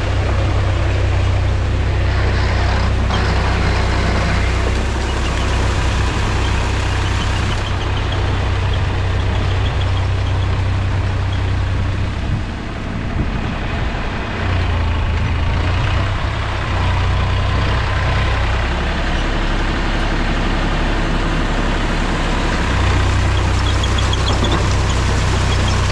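Mahindra tractor's diesel engine running steadily, loud and close. Its low engine note eases off twice in the second half and picks up again near the end.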